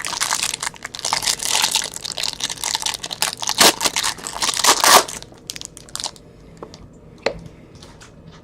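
Plastic wrapping on a box of trading cards being torn off and crumpled, a dense crinkling that stops about five seconds in, followed by a few light handling clicks.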